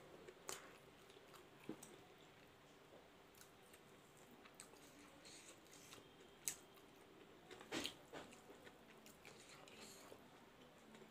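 Faint sounds of a person chewing a mouthful of rice and food, with a few short, sharp mouth clicks, the loudest two about two thirds of the way through.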